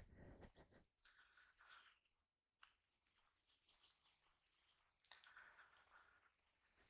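Faint short bird chirps, single calls coming about once a second with brief pauses between them.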